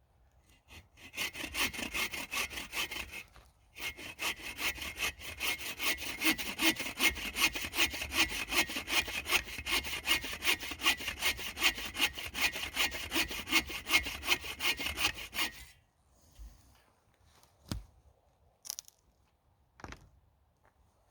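Hand saw cutting through a dead standing tree for firewood, in steady back-and-forth strokes at about two or three a second. It pauses briefly early on, stops about three-quarters of the way through, and a few light knocks follow.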